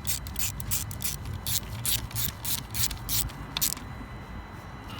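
Ratchet wrench clicking in short strokes, a few a second, as T30 Torx screws on an intake manifold repair bracket are fully tightened, then stopping.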